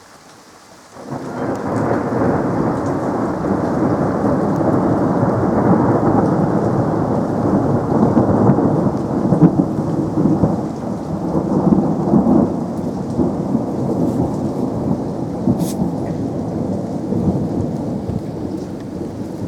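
Thunder: a long roll that breaks in suddenly about a second in and rolls on for many seconds, slowly easing toward the end, over steady rain.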